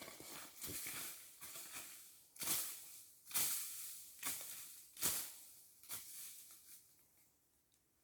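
Irregular crunching and rustling of dry vegetation, about one crunch a second, fading away near the end.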